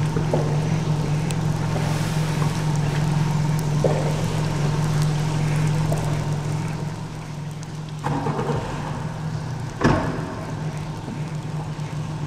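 Tour boat's motor running steadily as a low hum, with water and wind noise over it. A sharp knock about ten seconds in.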